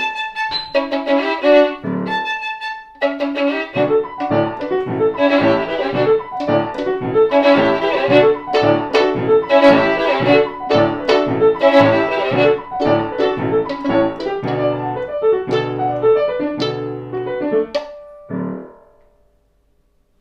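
A 1787 Neapolitan violin by Giovanni Battista Fabbricatore plays with piano accompaniment in a fast, rhythmic passage of short repeated notes. It closes on a final note a little before the end, then stops.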